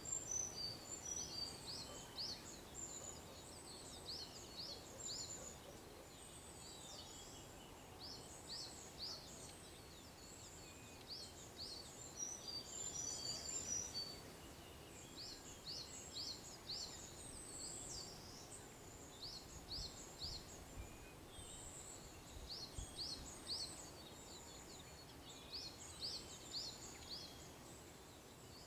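Small songbirds chirping: high-pitched notes in quick runs of three to five, repeating throughout, over a faint steady background hiss.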